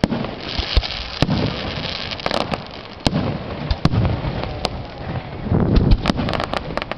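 Aerial fireworks bursting one after another: deep booms mixed with sharp cracks, with a quick run of crackling reports near the end.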